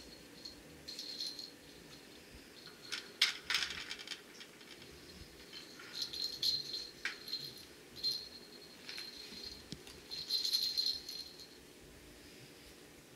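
A cat toy rattling in short bursts, as if being batted or shaken, with a few sharp clicks about three seconds in.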